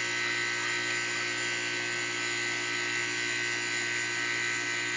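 Goodman central air conditioner's compressor running on its own, its condenser fan disconnected: a steady hum with several steady higher tones.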